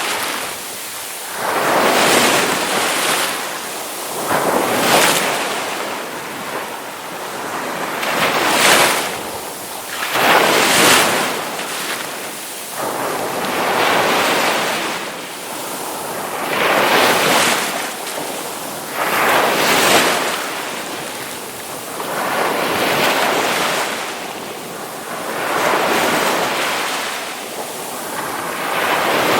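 Ocean waves breaking in surf, a wash of noise that surges and ebbs about every two to three seconds.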